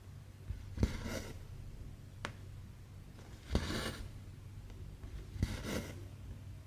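Hand cross-stitching on 11-count stamped fabric: the needle clicks through the cloth and the thread is drawn after it with a short rasping swish, three times about two seconds apart, with one lone tick between the first two.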